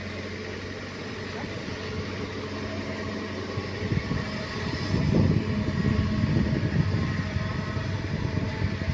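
Caterpillar excavator's diesel engine running with a steady hum, growing louder and rougher from about four seconds in as the machine works.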